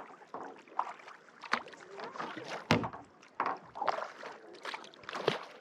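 Kayak paddling on a lake: paddle blades dipping and pulling through the water with irregular splashes and drips, and a sharp knock nearly three seconds in.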